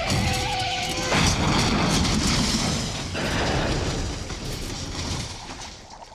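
Action-film sound effects of a heavy vehicle crash: a loud impact about a second in, then a long rumbling, clattering din that fades near the end.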